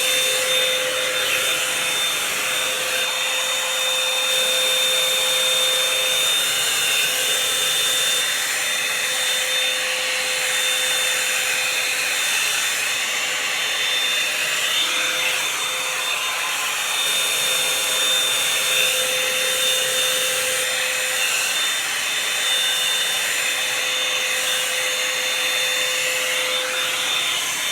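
Revlon One-Step hot-air brush (hair dryer and volumizer) running steadily on damp hair: a constant rush of blown air with a thin high motor whine.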